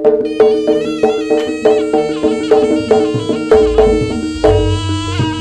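Jaranan gamelan-style music played live. Metallic struck notes keep a steady beat of about two to three strikes a second over sustained ringing tones and a wavering reed-like melody line, with deep drum or gong hits in the middle.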